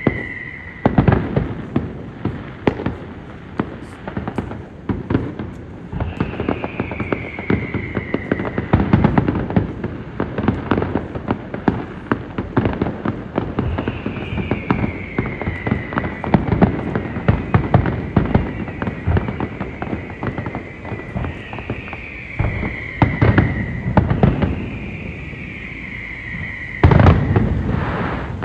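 Fireworks going off in a dense run of bangs and crackles, with a louder burst near the end. A whistle falling in pitch over about two seconds recurs four times.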